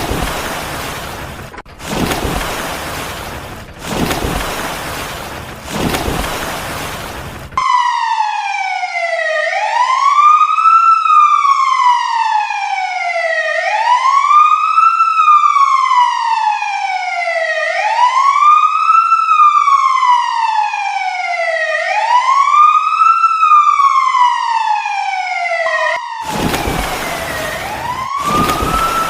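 Bursts of hissing noise about every two seconds, each fading away, then an electronic siren wailing: each cycle rises quickly and falls slowly, repeating about every four seconds. The noise bursts return near the end while the siren keeps going.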